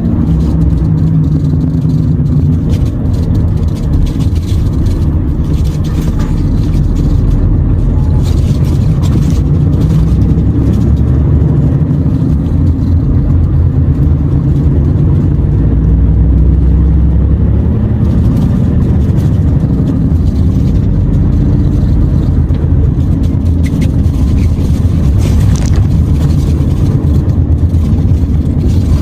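Renault T480 truck's diesel engine running on the road: a steady low drone whose pitch drifts slowly as it pulls, with a few brief knocks and rattles.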